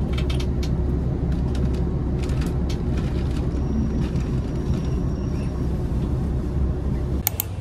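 Train heard from inside the carriage as it rolls slowly along the platform: a steady low rumble with a few faint clicks and rattles. It cuts off sharply near the end.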